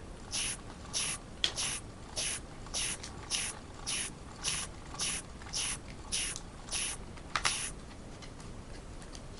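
Wilesco model steam engine ticking over slowly on its last boiler pressure, puffing steam about twice a second. The puffs stop about three-quarters of the way through. Steam is leaking badly from the cylinder, where a missing screw has left a hole in the steam chest.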